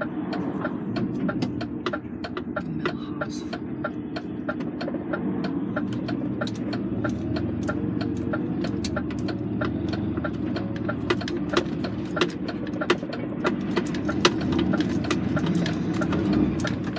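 Lorry engine running steadily, heard from inside the cab, with many short irregular clicks and rattles over it.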